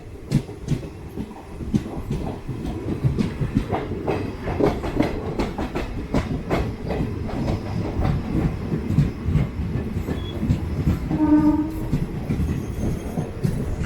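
DEMU train running on the track, its wheels clattering over rail joints and points as it comes into a station: a steady low rumble with irregular sharp knocks. A short steady tone sounds about eleven seconds in.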